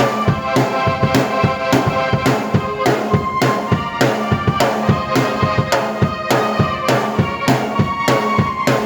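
Drum kit and keyboard played together in an instrumental piece. Held keyboard notes and chords sound over a steady drum beat, with hits about twice a second.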